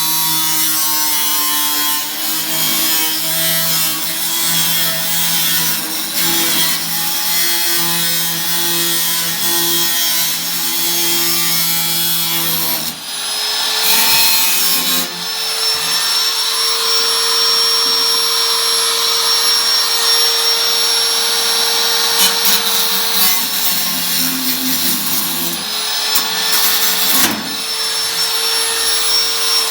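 Electric power tool running under load, its steady motor tone shifting as it works. About thirteen seconds in the pitch jumps higher and a thin high whine and hiss join, holding until near the end.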